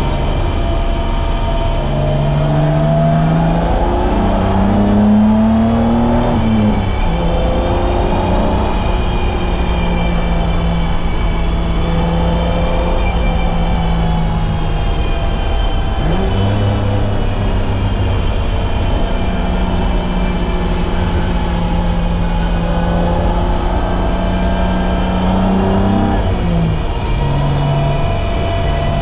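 BMW E30's M20B25 inline-six engine running hard through a lap, its pitch climbing and falling, with sudden drops in pitch about seven seconds in and near the end as gears change.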